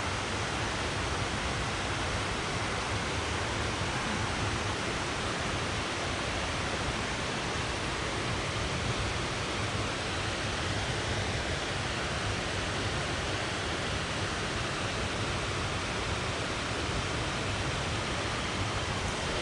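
Steady, unbroken rush of waterfall water, an even hiss and rumble with no pauses.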